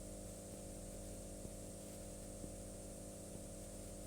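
Cessna 140's engine idling, heard faintly as a steady low drone with hiss through the cockpit intercom.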